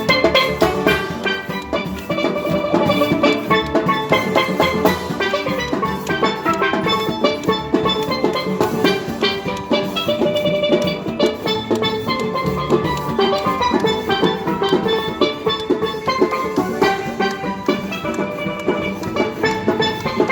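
A steel band playing: many steel pans striking fast, dense runs of notes over a drum rhythm section.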